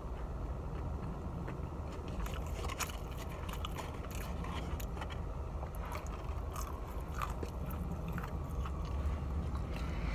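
A person chewing food with open-mouth smacking: short wet clicks and smacks of the lips and tongue at irregular intervals, mostly from about two seconds in, over a low steady hum.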